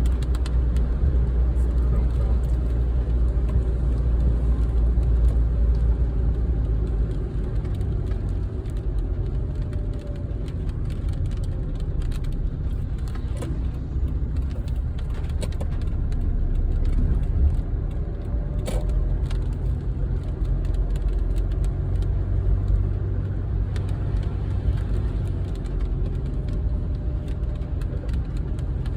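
Steady low rumble of a car driving through a heavy storm, with many scattered sharp ticks of precipitation striking the car.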